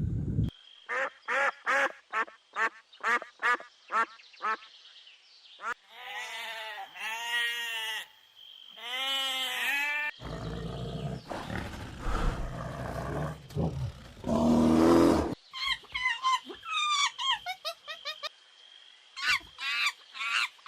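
A run of waterfowl and bird calls: a quick series of short duck-like quacks at about two a second, then long drawn-out honking calls, then a noisy low stretch and higher warbling calls near the end.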